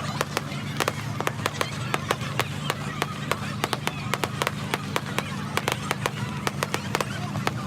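Fireworks crackling, with many sharp irregular cracks and pops, several a second, over a steady low hum.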